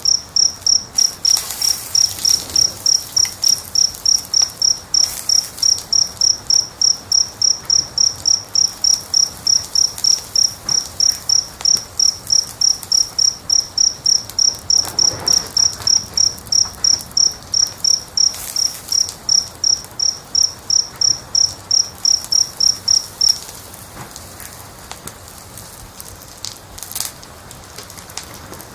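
A cricket chirping in a fast, very even rhythm, about three high-pitched chirps a second, stopping abruptly near the end. Underneath is a faint hiss with scattered soft crackles.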